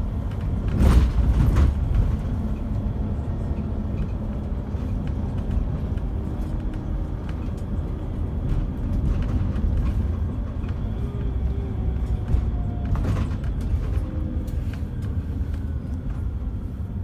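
Steady low rumble of a Scania K360EB4 coach underway, with engine drone and road noise, heard inside the cabin. There are sharp rattles or knocks about a second in and again around thirteen seconds, and a faint engine tone falls slowly in the middle.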